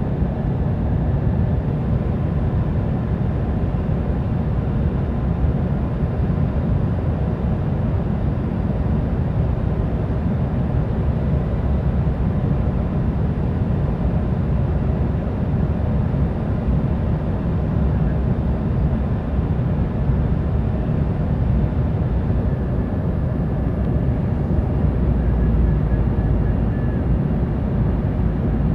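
Steady cabin noise of an Embraer E175 jet, a low rumble of engines and airflow heard from inside the passenger cabin, with a faint thin tone above it.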